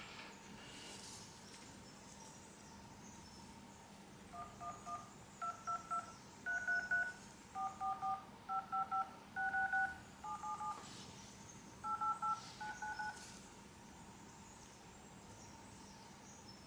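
Phone keypad dial tones (DTMF): a run of short two-tone beeps as digits are tapped in, each digit a different pair of pitches, about nine groups over some nine seconds, with a few faint taps around them.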